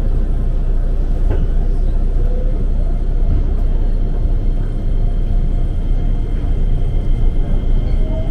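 Ex-JR 205-series electric commuter train running, heard from inside the car: a steady loud rumble of wheels on rails and running gear, with a faint steady whine above it.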